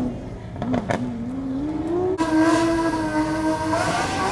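Supercar engine being free-revved while stationary: a couple of sharp pops in the first second as the engine note climbs, then about two seconds in a sudden harder rev held at a steady high pitch, shifting again near the end.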